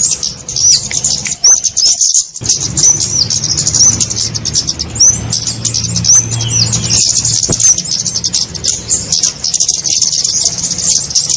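Flowerpecker (kemade) calls played as a bird-trapping lure: dense, rapid, high-pitched chirps and short ticking notes overlapping without a break.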